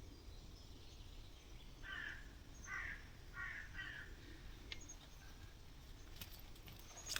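A bird calling in a forest: four short, harsh calls in quick succession about two seconds in, over faint outdoor background.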